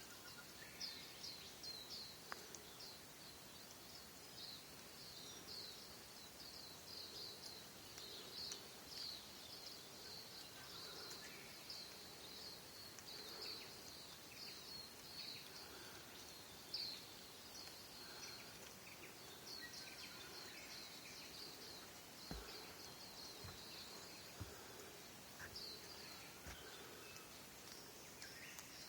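Faint chorus of small birds, many short high chirps and quick calls overlapping without pause. There are a few soft low thumps in the last third.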